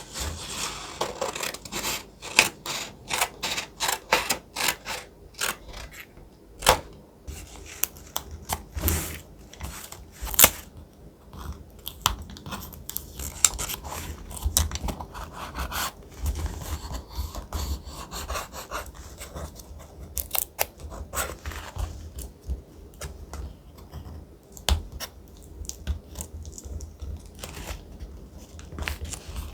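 Thick paper being handled for collage journaling: crisp crackling, crinkling and scraping. Dense sharp crackles come over roughly the first ten seconds, then softer rustling with low dull bumps.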